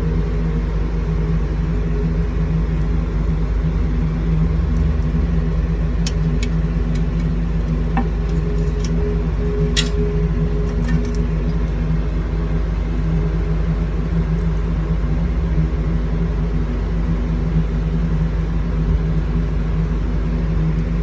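Steady low mechanical hum from a running motor or engine, with a few faint clicks.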